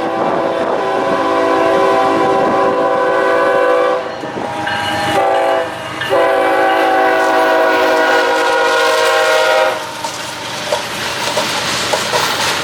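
Freight locomotive horn sounding a chord in a long blast, a short blast and another long blast, the pattern of a grade-crossing warning. After the horn stops, about ten seconds in, the train rolls past with its wheels clattering over the rail joints.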